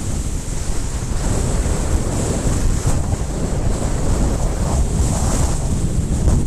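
Wind buffeting the microphone of a helmet camera while riding: a loud, steady rumbling noise with no breaks.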